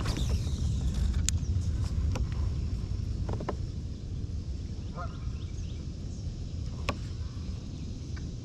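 Geese honking a few short calls in the distance over a steady low rumble, with a few sharp clicks.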